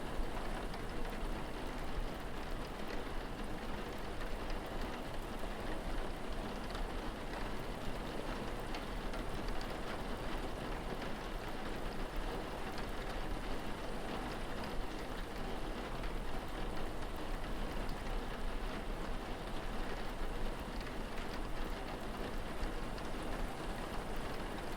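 Steady rainfall with scattered drop ticks.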